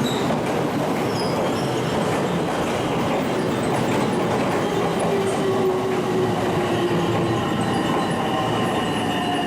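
Electric train running along the station platform: a steady rolling noise with thin, drawn-out squealing tones, one falling slowly in pitch over the last few seconds.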